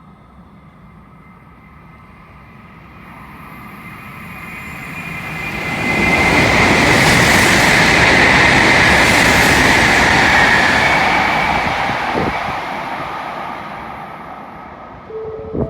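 N700-series Shinkansen train passing through the station at high speed without stopping: a rushing rail and air noise that builds over several seconds, stays loud for about five seconds, then fades away.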